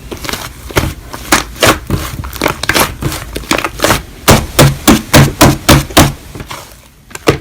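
Slime being squished and poked by hand, making a dense run of sticky clicks and pops. About halfway in come a few louder, evenly spaced presses, about three a second, and then the sound dies away near the end.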